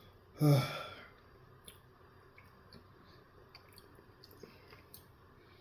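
Close-up chewing of a mouthful of breakfast sandwich, with faint scattered mouth clicks. About half a second in there is a short voiced murmur from the eater.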